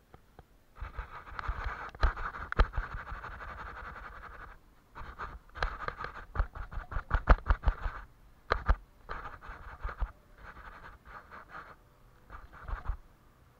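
Paintbrush rubbing across paper in scratchy strokes, in spells of one to three seconds with short pauses between them, mixed with many sharp little taps.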